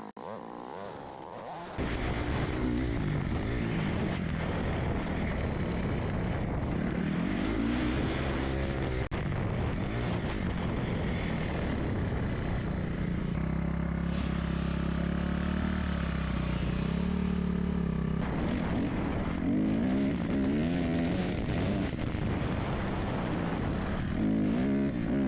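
Dirt bike engine running while riding, its pitch rising and falling as the throttle is rolled on and off. It comes in loud after a quieter second and a half.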